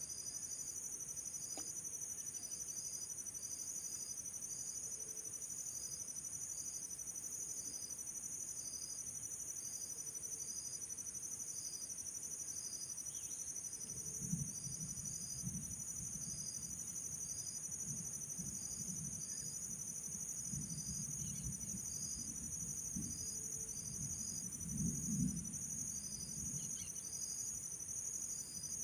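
Insect chorus, crickets trilling steadily with a regular pulsing chirp over a continuous high-pitched drone. In the second half there are scattered low thuds and rumbles.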